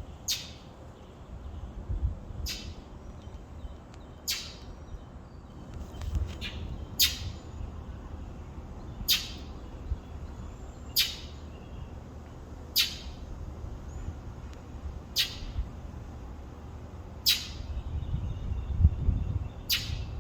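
A bird repeating a short, sharp high-pitched call about every two seconds, about ten calls in all, over a low rumble that grows louder near the end.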